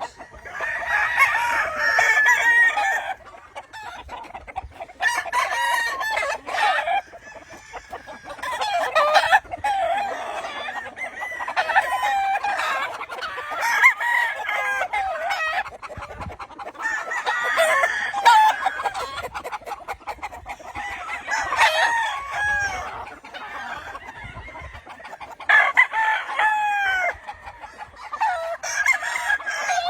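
Several gamecocks crowing one after another, a crow every couple of seconds with some overlapping.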